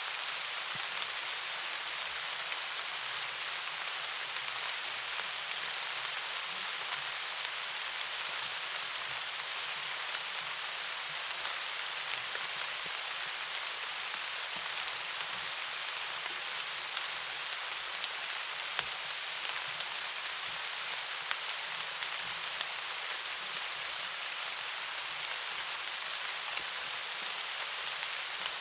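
Steady rain falling, an even hiss with a few louder sharp ticks scattered through it.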